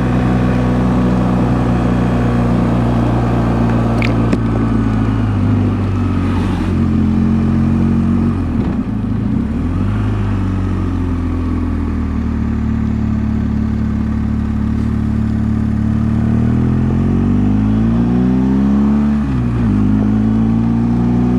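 BMW GS motorcycle's boxer-twin engine pulling uphill on a mountain pass, with wind noise. The engine note dips about halfway through, then rises steadily for a few seconds near the end and drops suddenly at a gear change.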